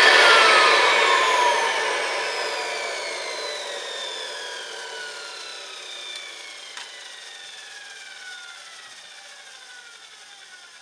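1960 Hoover Deluxe 652 upright vacuum cleaner's motor winding down after a short run, its whine falling in pitch and fading slowly over about ten seconds. Under the whine is a rough, scratchy noise, which the owner takes as a sign that it needs new carbon brushes.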